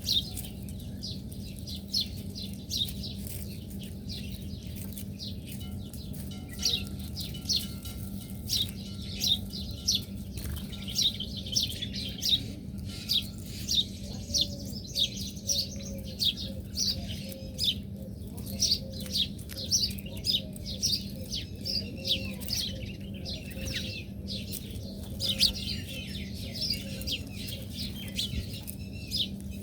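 Small birds chirping: many short, sharp, high chirps repeated over and over, several overlapping, over a steady low hum.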